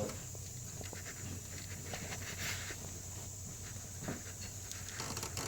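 Faint handling noises: soft rustling and a few light clicks, over a steady low hum.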